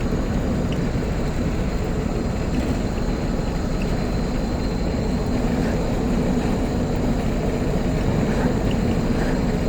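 Steady engine drone and road noise inside a moving car's cabin, a continuous low rumble with an even hum and no sudden sounds.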